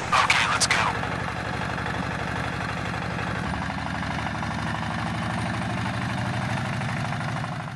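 Mini tractor engine idling with a steady, even chug. There is a short clatter of knocks in the first second.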